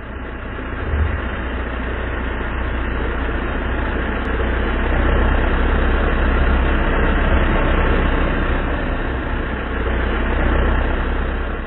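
Gator utility vehicle's engine running steadily: a constant low hum under a rushing mechanical noise.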